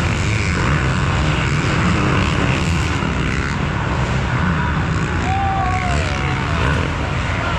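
Dirt bike engines running, a steady drone.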